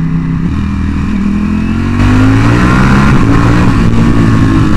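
Ducati Panigale V4S's V4 engine pulling hard under acceleration. Its pitch climbs through the revs and it gets louder about two seconds in.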